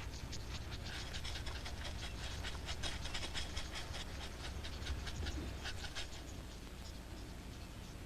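Guinea fowl scratching in dry ground: many quick, rasping scratches in rapid succession that thin out about six seconds in.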